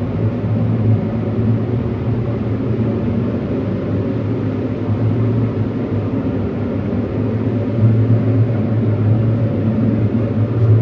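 Steady machine drone, an electric motor or fan running continuously with a strong low hum.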